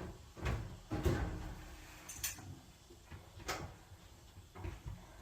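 Irregular knocks and clunks of hands working inside a clothes dryer's sheet-metal cabinet, fitting the drive belt around the motor pulley and the idler pulley. About five hits, the loudest about a second in, with a sharp click a little after two seconds.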